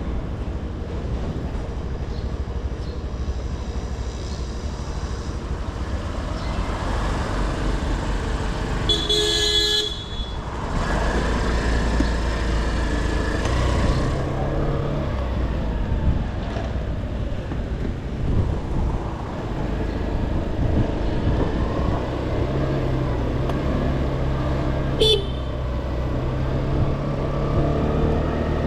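TVS Scooty Pep+ scooter on the move, its small single-cylinder engine running steadily under a constant low rumble. A horn toots briefly about nine seconds in.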